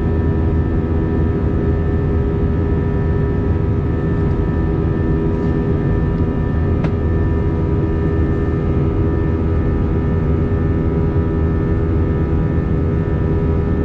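Steady jet engine and airflow noise inside the cabin of an Airbus A321, with several steady hum tones from the engines running over a loud rush.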